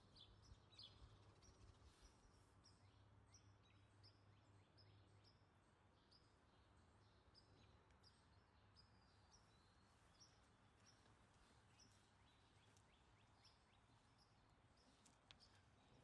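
Faint birdsong in the background: short, high chirping notes repeated about two or three times a second, growing fainter after about ten seconds, over a low steady hum.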